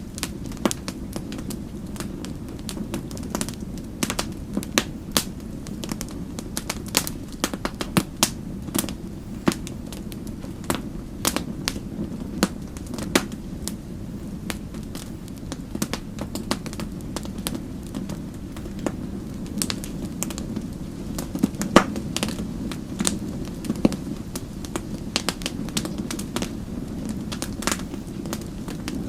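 Wood fire crackling in a fireplace: many irregular sharp pops and snaps over a steady low hiss of the flames.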